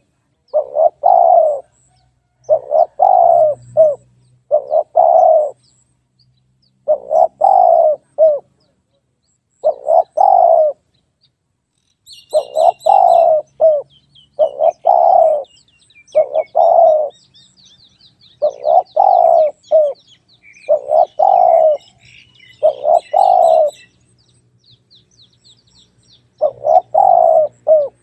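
Spotted dove cooing: loud repeated phrases of a few short notes each, one every second or two, with a couple of brief pauses. Small birds chirp faintly behind it through the middle.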